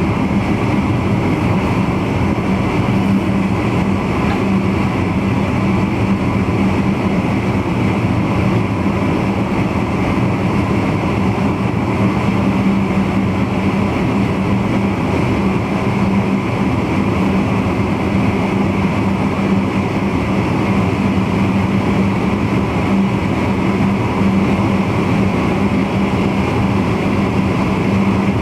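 Running noise of an NS VIRM double-deck electric intercity train heard from the driver's cab: a steady rumble of the train under way with a constant low hum.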